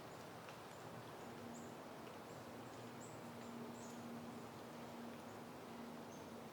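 Light wind making a steady soft hiss, with small birds giving many short, high chirps. A steady low hum starts about a second in and stops near the end.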